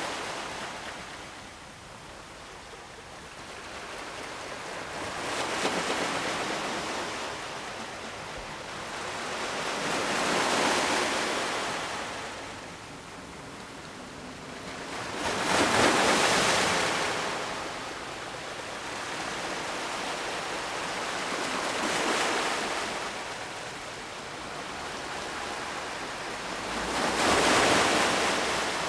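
Ocean waves breaking on the shore: a steady wash of surf that swells and falls, with five or six waves cresting a few seconds apart, the loudest near the middle and near the end.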